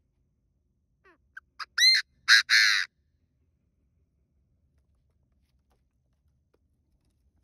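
Chinese francolin calling. About a second in come a few soft, quick notes, then three loud, ringing calls in quick succession, the last one harsh. All of it is over within two seconds.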